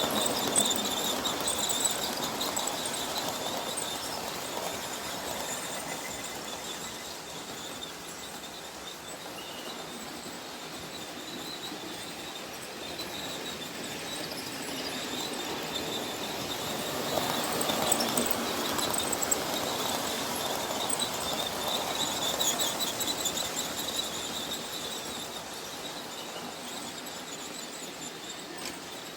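OO gauge model train running on the track: motor and wheel noise with a steady high whine, swelling as the train passes close right at the start and again from about 17 to 23 seconds in.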